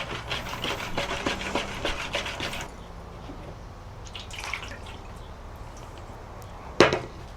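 Baking soda being mixed into warm water in a small tub: a quick flurry of splashing and clicking for the first few seconds, then quieter trickles, and one sharp knock near the end.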